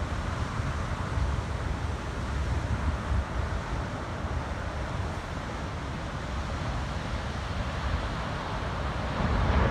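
Wind buffeting the microphone in uneven gusts over the steady rush of ocean surf.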